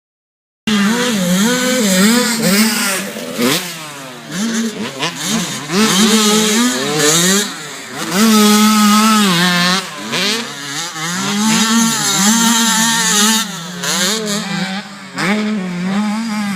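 Several dirt-bike engines revving, their pitch rising and falling again and again as the bikes are worked through the throttle. The sound cuts in suddenly about a second in.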